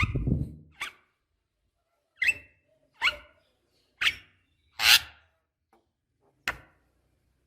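Javan myna (jalak kebo) giving short, harsh calls, about one a second, after a longer rough call at the start.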